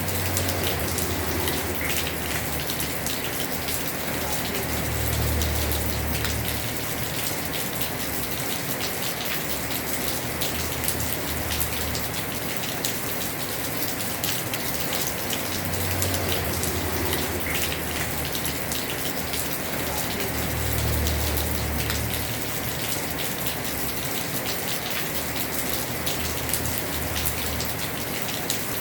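Heavy rain falling on a house roof: a steady hiss dotted with many small drop ticks. A low rumble swells and fades every five seconds or so.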